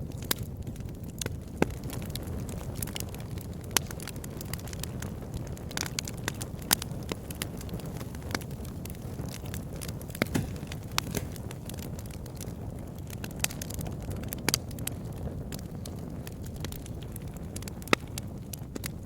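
Campfire burning: a steady low rumble of flames with irregular crackles and sharp pops of burning wood, a few of them louder than the rest.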